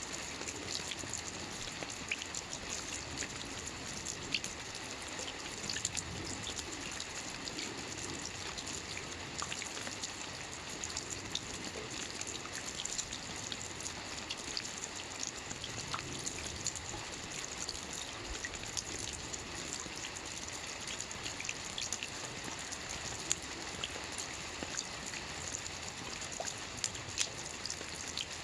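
Steady rain falling on a lake: an even hiss of water with many small, separate drop ticks scattered through it.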